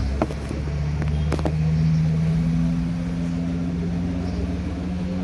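A motor running with a steady hum that rises in pitch about a second in, with a few sharp clicks near the start.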